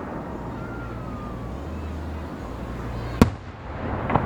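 Fireworks going off: one sharp, loud bang about three seconds in and a weaker bang near the end, over a steady low background rumble.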